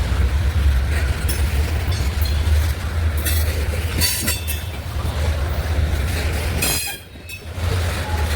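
Train rolling past: a steady low rumble with repeated wheel clicks and brief high wheel squeals, and a short drop in level about seven seconds in.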